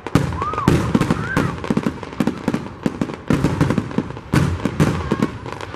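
Aerial fireworks shells bursting in quick succession: a dense run of bangs and crackles with heavier booms scattered through, and two short rising-and-falling whistles near the start.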